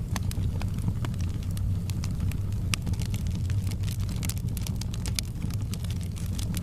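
Wood fire burning in a fireplace: frequent sharp crackles and pops, several a second, over a steady low rumble of the flames.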